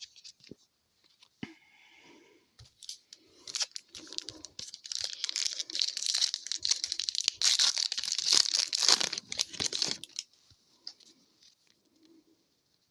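A hockey card pack wrapper being torn open and crinkled, a dense crackling rip lasting about six seconds from around three and a half seconds in, with lighter rustling of the pack and cards before and after.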